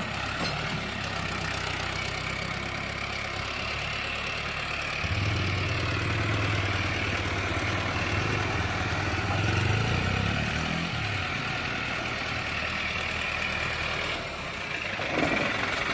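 Mahindra Arjun 605 tractor's diesel engine running. It grows louder from about five seconds in and eases back after about eleven seconds.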